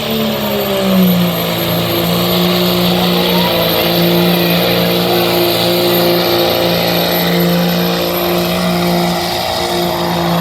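A pulling truck's engine running hard at high, steady revs while dragging the sled. Its pitch dips slightly about a second in and then holds, with a high, steady whistle over it.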